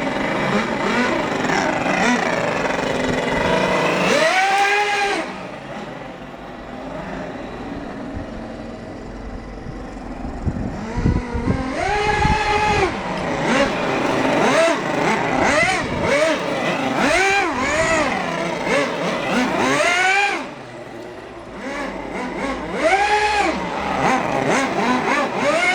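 Twin-rotor O.S. 49-PI model Wankel rotary engine running and being revved. It runs high for the first few seconds, drops to a lower idle, then is blipped repeatedly, the pitch rising and falling sharply with each rev.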